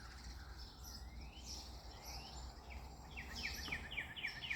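Faint birdsong: a few thin rising whistles, then from about three seconds in a quick run of short falling notes, about four a second.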